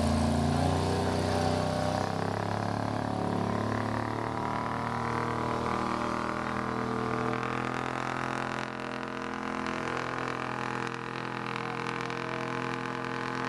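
Chevy flatbed truck's engine running hard under heavy load during a truck pull. Its pitch climbs slowly over the first several seconds, then holds fairly steady.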